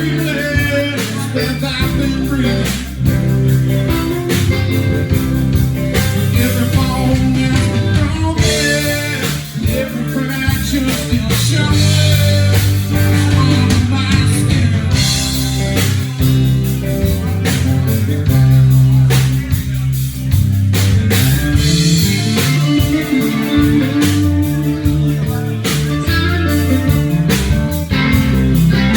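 Live rock band playing a blues-rock song: electric guitar over bass and drums.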